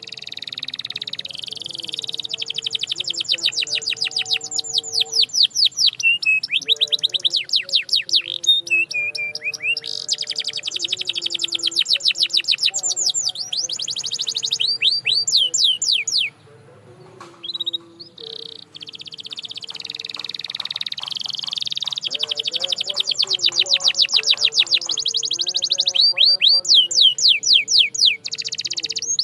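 Domestic canary singing in long, fast trills of rapidly repeated downward-sweeping notes, with a brief pause a little past halfway through.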